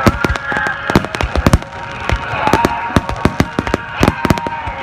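Fireworks bursting in rapid succession, many sharp bangs a second overlapping one another.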